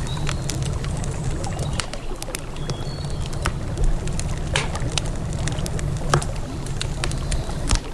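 Wood campfire crackling, with frequent irregular sharp pops and snaps, over a steady low rush of flowing river water.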